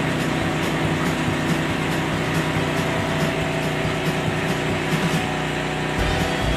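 Steady drone of a large machine running continuously.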